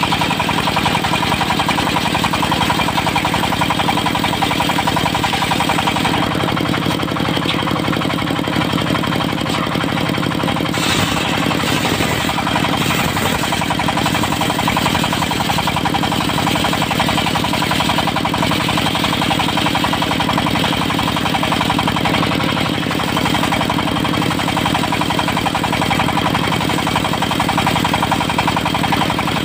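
Diesel engine of a mobile circular-saw sawmill running steadily under a fast, even firing rhythm.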